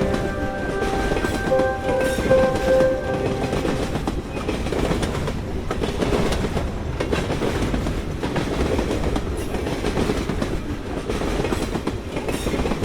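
Passenger train running along the rails, heard from inside a carriage: a steady rumble with wheels clattering over the track.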